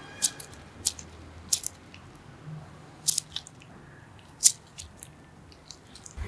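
Scattered sharp clicks and taps of small hard parts being handled, about five distinct ones at irregular gaps, the loudest about two-thirds of the way through.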